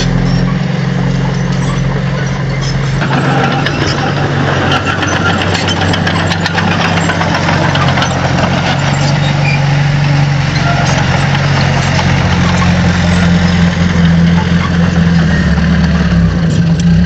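Diesel engine of heavy earthmoving machinery running steadily, its pitch shifting a little under changing load, with scattered clicks and knocks over it.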